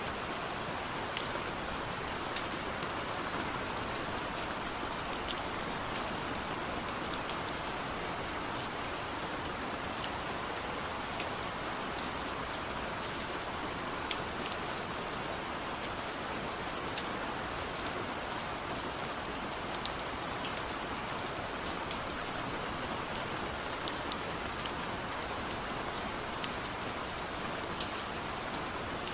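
Steady rain falling, an even hiss with scattered sharp ticks of single drops hitting a surface.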